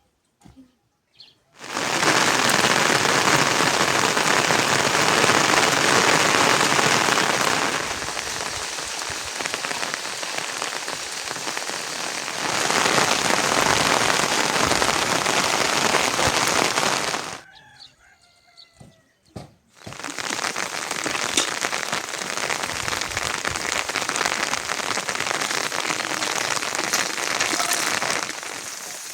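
Heavy rain falling, a dense steady hiss that cuts in abruptly a couple of seconds in, drops out suddenly for about two seconds past the middle, where faint bird chirps are heard, then resumes.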